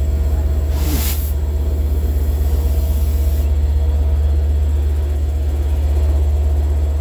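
Diesel-hauled commuter train of C3 bi-level cars giving off a loud, steady low rumble close by, with a short hiss about a second in.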